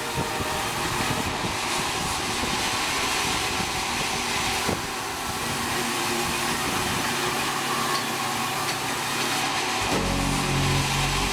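Sawmill machinery running with a steady, loud, hissing noise, with a deep engine-like hum coming in near the end.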